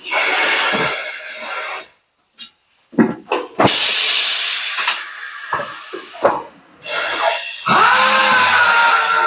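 Compressed air hissing in repeated bursts of one to two seconds, separated by short gaps. Near the end a steady tone comes in under the hiss.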